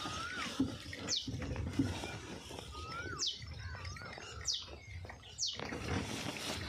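Birds calling: four quick whistles that each fall steeply in pitch, spread through the clip, with lower wavering notes in between, over a steady low background rumble.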